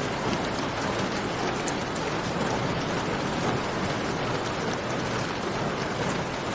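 Steady rain, as heard from a cave, with a campfire's scattered crackles mixed in as small sharp ticks now and then.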